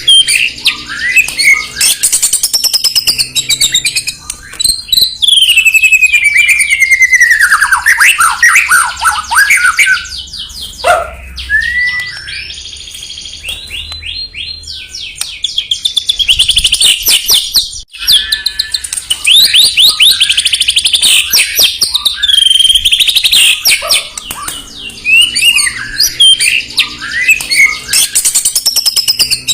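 White-rumped shama (murai batu) singing loudly and without pause: rapid, varied whistled phrases, fast trills and falling sweeps, broken by a brief gap about two-thirds of the way through.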